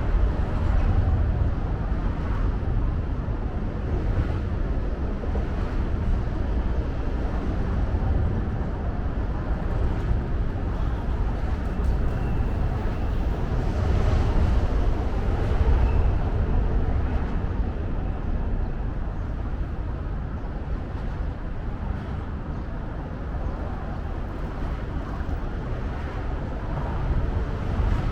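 Outdoor city ambience: a steady low rumble of traffic, with no single sound standing out.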